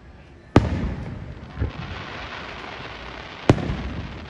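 Aerial fireworks shells bursting: two sharp loud bangs about three seconds apart, each followed by a rolling echo, with a softer thump about a second after the first.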